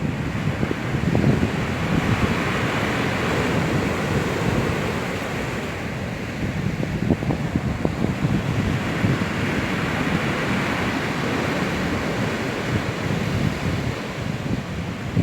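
Storm surf on the Black Sea breaking and washing on the shore, swelling twice, with strong wind buffeting the microphone in low rumbles.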